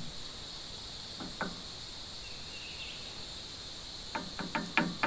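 Steady high-pitched drone of insects, with a few light clicks and knocks about a second and a half in and several more near the end.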